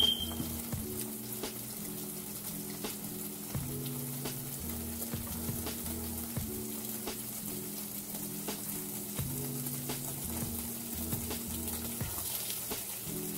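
Beaten eggs with a slice of bread frying in a nonstick pan, a steady sizzle with small crackles. A single sharp clink sounds right at the start.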